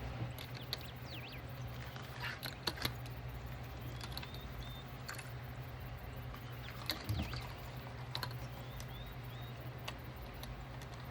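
Scattered light clicks and taps from handling fabric, clips and tools at the sewing table, over a steady low hum, with a few faint bird chirps.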